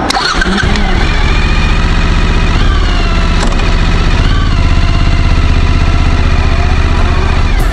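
Suzuki V-Strom 1000 motorcycle's V-twin engine running loudly and steadily, its pitch rising and dipping a couple of times.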